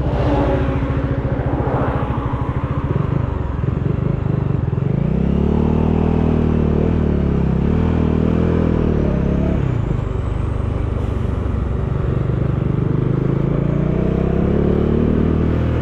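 Bajaj Dominar 400 single-cylinder engine under way, with wind noise. The revs climb about five seconds in, hold, drop around ten seconds, then climb again near the end.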